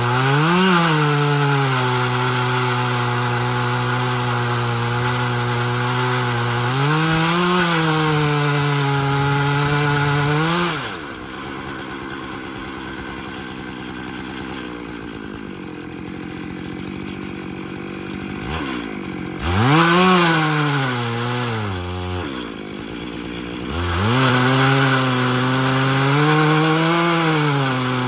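Two-stroke chainsaw on a chainsaw mill, running at high speed under load as it rips through a live oak log, the pitch dipping and recovering as the cut bogs. Partway through it falls to a lower, quieter running for several seconds, revs up briefly, then goes back to full speed in the cut.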